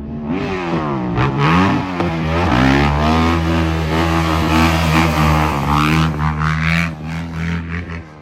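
Dirt bike engine revving hard, its pitch swinging up and down as it shifts through the first couple of seconds, then held high and steady at speed before dropping away near the end.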